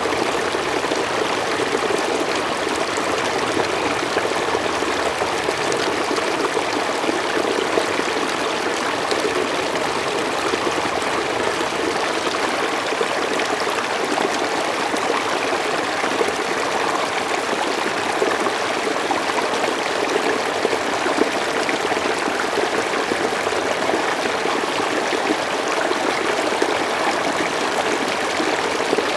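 Mountain stream flowing steadily over rocks, a continuous even rush of water with small splashes and trickles.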